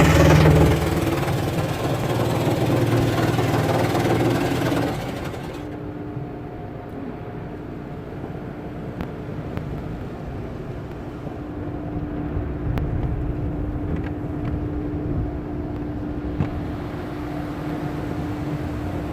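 Car running with a steady low hum, under a loud rushing noise that drops away about five seconds in; a few faint clicks follow.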